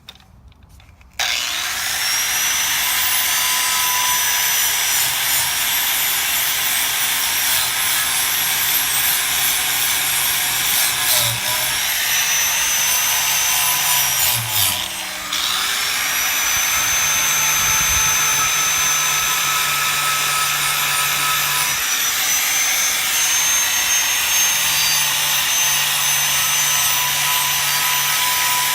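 Handheld electric power tool starting up about a second in and running steadily as it works rust off an old steel sickle blade, with a high whine over a rough scraping noise. Near the middle it briefly drops off and spins back up.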